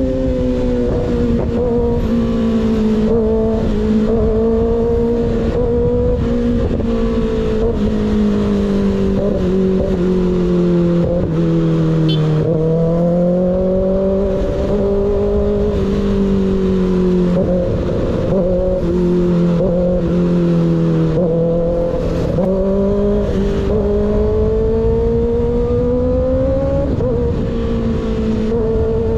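Sport motorcycle engine heard from on the bike, running through an unbaffled M4 GP19 slip-on exhaust while cruising on part throttle. The engine pitch drifts gently up and down with small throttle changes, easing off about halfway through and building again near the end.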